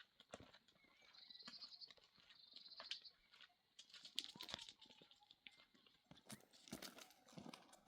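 Faint, irregular hoof steps of a horse on rough ground. A short, high twittering trill comes in about a second in and lasts a couple of seconds.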